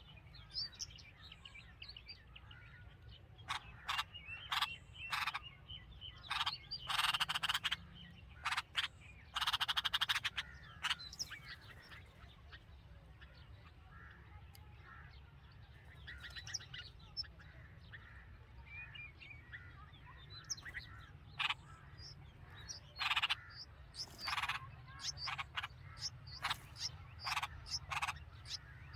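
Red-vented bulbuls calling at the nest: short sharp chirps in irregular clusters, with two longer raspy calls about 7 and 10 seconds in, over a steady low hum.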